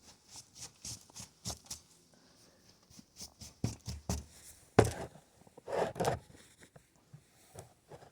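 Handling noise from a camera being carried and positioned: irregular rustling, scraping and clicking, with one sharp knock about five seconds in.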